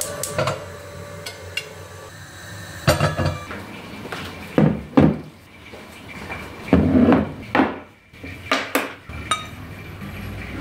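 Irregular knocks and clinks of hard objects being handled, some ringing briefly, like dishes or metal items set down.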